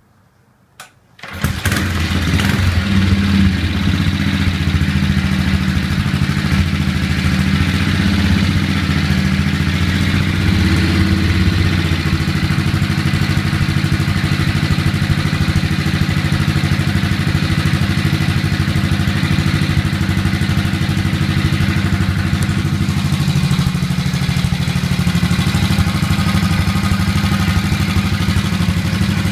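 1969 BSA Victor single-cylinder four-stroke motorcycle engine started from cold: it fires about a second in and then keeps running steadily.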